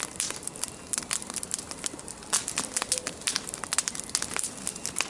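Wood bonfire burning, crackling with sharp, irregular pops.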